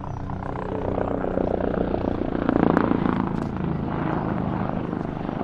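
An aircraft flying past at an airshow, its engine noise swelling to a peak about two and a half seconds in and then easing off.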